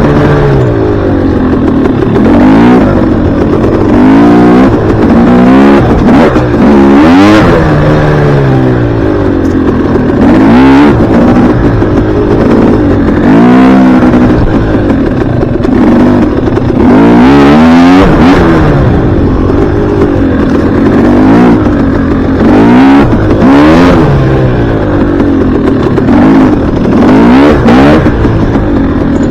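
Dirt bike engine revving hard and easing off over and over, its pitch climbing and dropping back every second or two as the throttle is worked on the ride.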